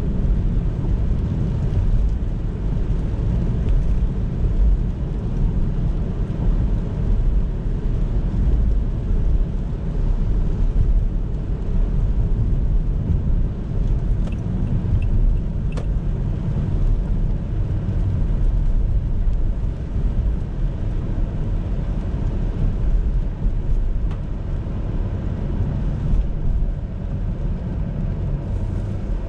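A car driving on a road: a steady low rumble of tyre, road and engine noise, with a brief faint click about two-thirds of the way through.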